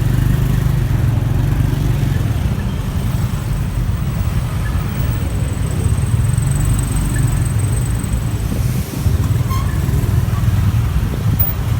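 Steady low rumble of a motorbike riding through heavy city traffic: engine and road noise with no distinct events.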